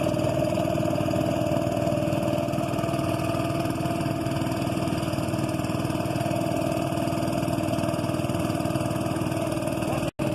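Boat engine running steadily at a constant pitch, with a momentary dropout to silence near the end.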